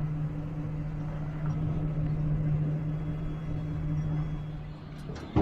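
U-Haul box truck running at a steady speed, a low even engine hum over road rumble.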